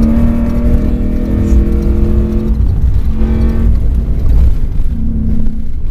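Ford Raptor off-road race truck driven at speed over rough, rutted ground: a heavy rumble of engine and chassis, with a steady engine drone that drops away about two and a half seconds in and returns briefly twice.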